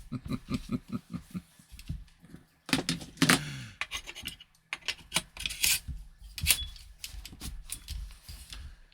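Scratching, rubbing and sharp clicks of an airsoft rifle being handled, with a quick run of short pitched sounds near the start.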